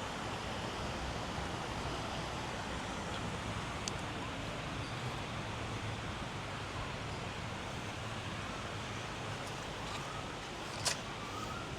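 Steady rushing of a river flowing over rocks, an even noise without pauses. A few faint short rising chirps come near the end.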